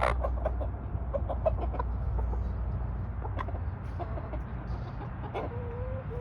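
Domestic chickens clucking in quick short notes, with a longer drawn-out call near the end.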